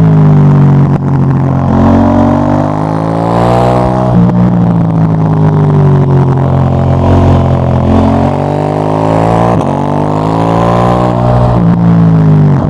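KTM 890 Duke GP's parallel-twin engine through a Dominator HP8 slip-on exhaust, accelerating hard. The revs climb, drop sharply at a gear change about four seconds in, then climb again.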